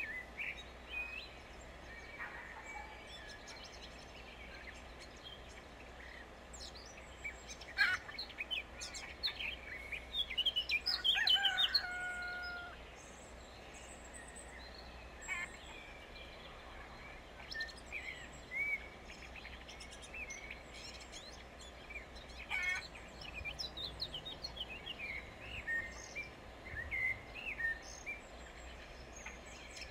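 Small birds chirping and singing on and off, with a louder, busier run of calls about ten seconds in, over a steady low background rumble.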